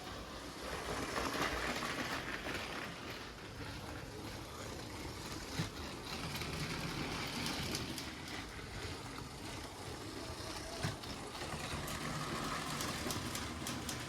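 LEGO train running along plastic track: a steady motor whir and wheel rumble, with a sharp click twice.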